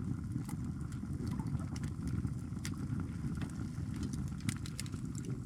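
Wood fire burning in a small hot-tent stove: scattered crackles and pops from the burning wood over a steady low rumble.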